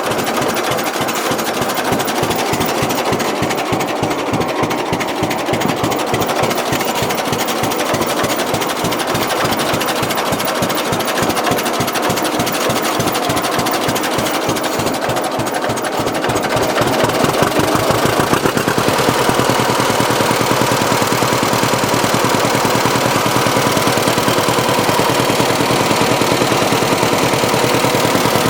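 John Deere B's two-cylinder engine running just after a hand start, with a fast, regular firing beat. About two-thirds of the way in it gets slightly louder and its beat changes.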